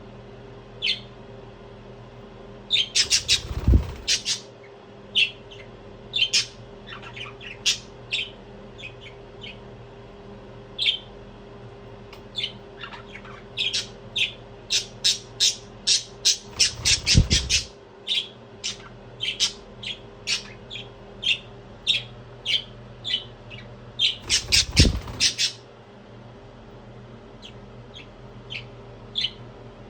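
English budgie chirping and squawking in short sharp calls, with three louder bursts of rapid calls about a quarter, a half and five-sixths of the way through, each with a low thump. A faint steady hum runs underneath.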